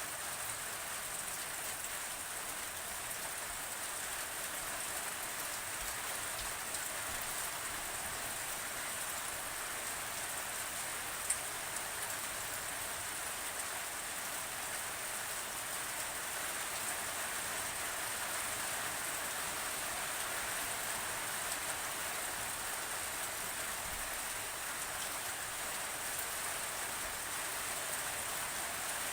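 Steady rain falling, an even hiss with no letup, with a single faint drop click about eleven seconds in.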